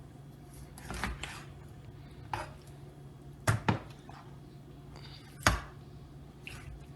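Knife chopping through raw chicken joints onto a cutting board: about six irregular knocks, a close pair among them, the loudest near the end.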